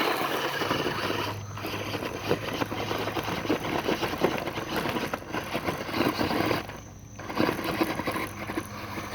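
Electric R/C monster truck motor running flat out, spinning its single driven tire in place so it churns and throws up dirt and gravel. A steady motor hum under the grinding, cutting out briefly about three times.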